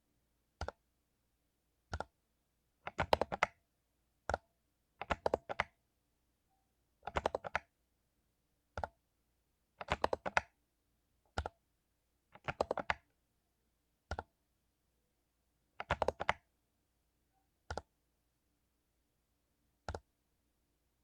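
Mechanical keyboard with lubed Cherry MX Silver linear switches being typed on: short bursts of rapid keystrokes alternating with single key presses, with a second or two of silence between them.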